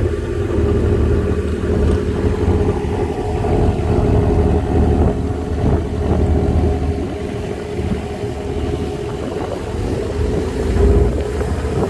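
Longtail boat's engine running steadily under way at cruising speed.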